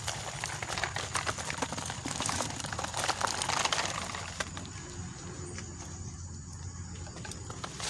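A toy truck and its load of wooden pieces clattering: quick irregular plastic-and-wood clicks and knocks, dense at first and thinning out about four and a half seconds in, over a low steady hum.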